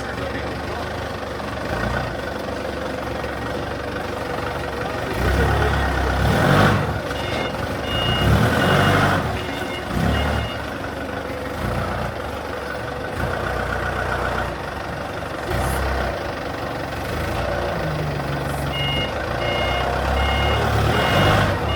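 Excavator's diesel engine running under load, swelling in level several times, while its travel alarm beeps in evenly spaced high pulses, in two runs: one about a third of the way in and another near the end.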